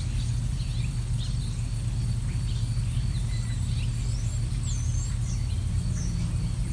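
Small birds chirping, many short calls overlapping, over a steady low rumble.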